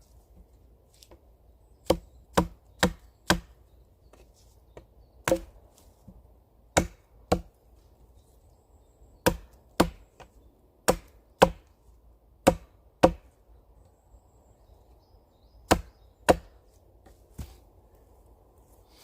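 An axe chopping wood: about fifteen sharp, separate strikes, often in pairs about half a second apart, with short pauses between the groups.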